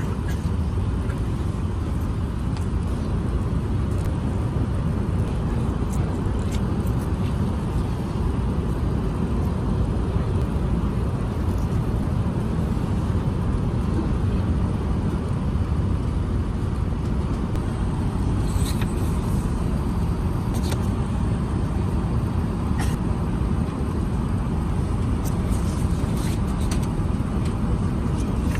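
Steady low rumble of cabin noise inside an Airbus A380-842 airliner, with a few faint clicks in the second half.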